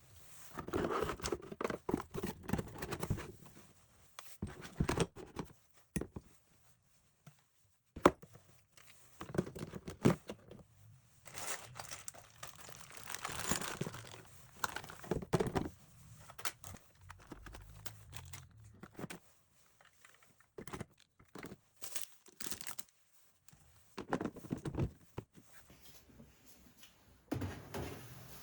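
Things being handled and sorted by hand: irregular rustling and crinkling of packaging, with occasional sharp knocks, one louder click about eight seconds in.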